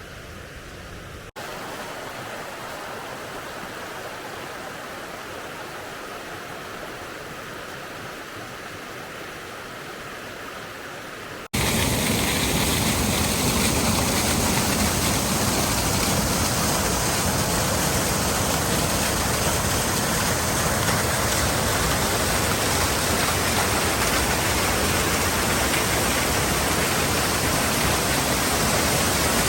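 Mountain stream waterfalls and cascades, a steady rush of falling water. The sound changes abruptly about a second in and again about eleven seconds in, and is much louder after the second change.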